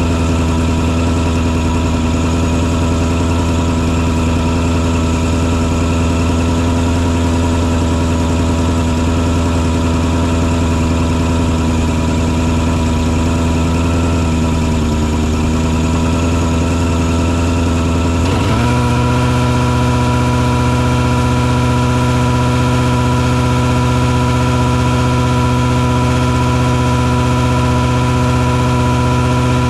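Engine of a mosquito-fogging truck running steadily. About two-thirds of the way in its note dips briefly, then jumps up and settles at a slightly higher steady speed.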